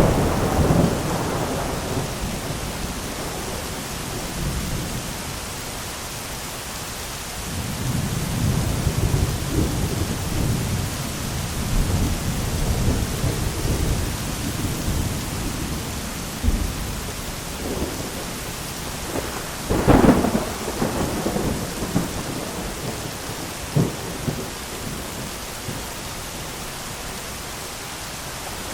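Steady heavy rain with rolling thunder rumbling underneath. About two-thirds of the way through a sharp, close thunderclap cracks and rumbles away, with a smaller crack a few seconds later.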